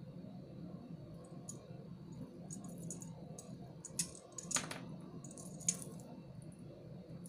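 Small, light clicks of beads and pliers being handled, a few scattered taps with the sharpest ones just after the middle, over a steady low hum.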